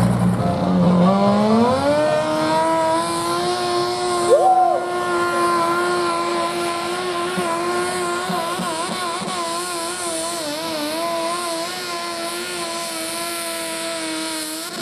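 A pulling machine's engine revs up sharply about a second in, then is held at high revs under load through the pull, its pitch wavering slightly. It cuts off abruptly at the end.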